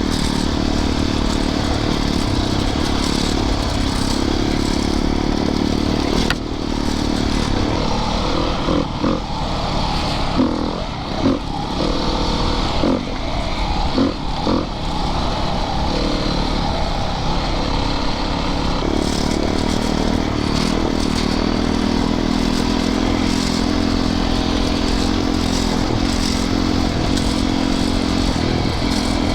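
Single-cylinder four-stroke dirt bike engine running under way on a trail, pitch shifting with the throttle. In the middle stretch it is broken up by clattering knocks from the bike over rough ground before settling back to a steady run.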